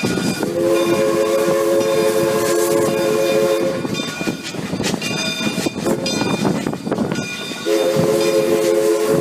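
Steam locomotive chime whistle sounding a steady chord of three notes: one long blast of about three seconds, then a second blast starting near the end. Continuous train running noise throughout.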